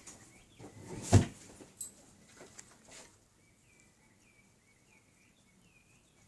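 A single knock about a second in and a few lighter clicks, then faint short high chirps repeating about twice a second through the last few seconds.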